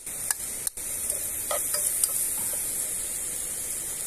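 Chopped vegetables sizzling as they sauté in hot oil in a pot over a wood fire: a steady frying hiss with a few sharp pops.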